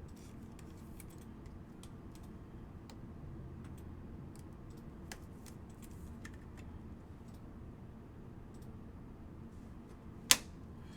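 Football trading cards being handled and flipped through by hand: faint scattered clicks and slides of card stock, with one sharp click near the end.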